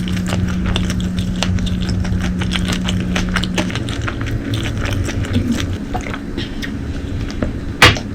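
Close-miked chewing and eating sounds, with many small crisp clicks. A steady low hum stops about four seconds in, and two sharp, loud knocks come near the end.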